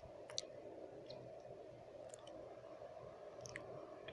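Close-miked wet mouth sounds: a handful of sharp, wet lip and tongue clicks, the strongest about half a second in, over a steady low background noise.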